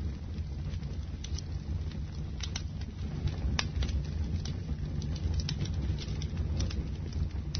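Bonfire burning: a steady low rumble of flames with irregular sharp crackles and pops from the burning wood, roughly one a second.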